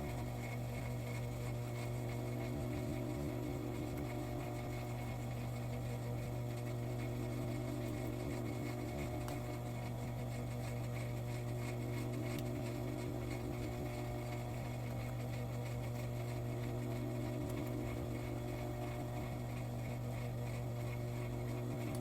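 Sewing machine motor running with a steady, even hum.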